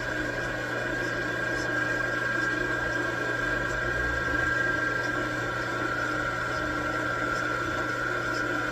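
Metal lathe running while turning a steel stud, a steady high whine over a low hum.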